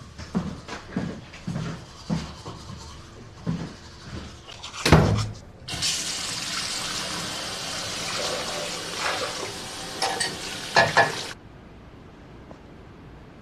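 Water running from a tap into a sink for about five and a half seconds, then shut off abruptly. Before it come a few soft thumps and one sharper knock.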